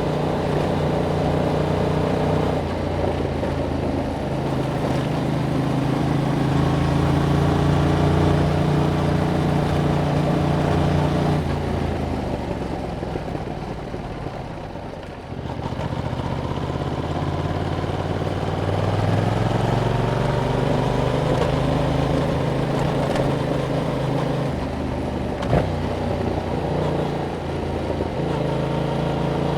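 Yamaha MT-07's parallel-twin engine through its stock exhaust while riding: steady at part throttle, then the revs fall as the throttle is rolled off, and they climb again under acceleration about halfway through, with another dip near the end. A short click comes just before the end.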